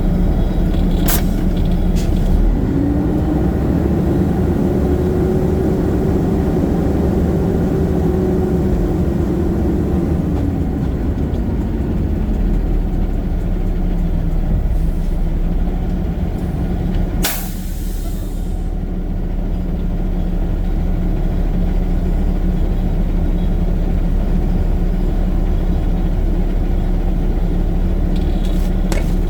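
Garbage truck's diesel engine running as it drives, its pitch climbing and then falling away over the first ten seconds or so. A short, sharp hiss of air brakes a little past halfway.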